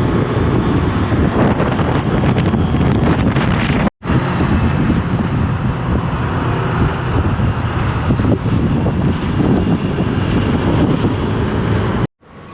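Wind buffeting the microphone over the engine and road noise of a moving automatic scooter. The sound cuts out abruptly for an instant about four seconds in and again near the end.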